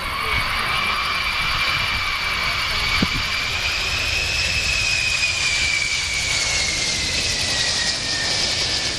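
Low-flying aircraft passing by: a steady engine roar with a high whine that rises slightly in pitch and then falls away as the plane goes past.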